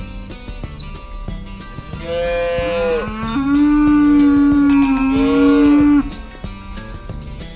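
A cow mooing: one long moo that starts about two seconds in, steps up in pitch and holds for about three seconds, then stops abruptly. Background music plays throughout.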